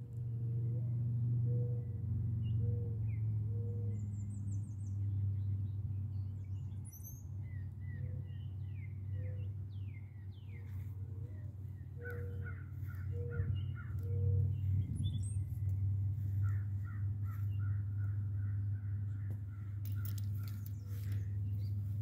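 Wild birds calling over a steady low rumble: scattered chirps and whistles, with two runs of quick repeated calls around the middle and later on.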